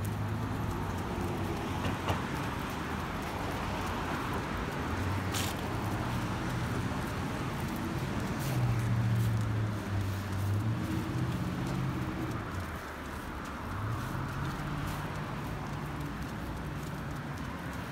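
A car engine running with a low hum that rises in pitch about halfway through, dips and drops out briefly, then picks up again. A few sharp clicks sound early on.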